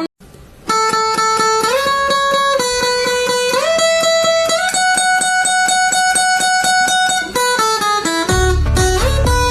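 Instrumental music with a plucked guitar picking fast repeated notes over slowly changing chords, after a brief silent gap at the start; a heavy bass beat comes in near the end.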